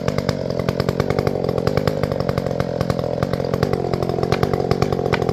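Two-stroke chainsaw running steadily at a constant engine speed.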